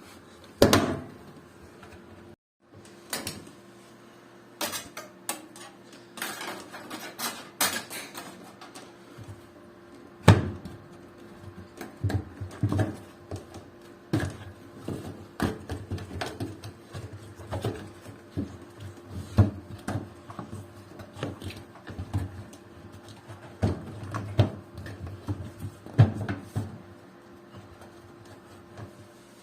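Irregular knocks, clatters and clinks of hard parts and tools being handled while working on a washing machine, over a faint steady hum.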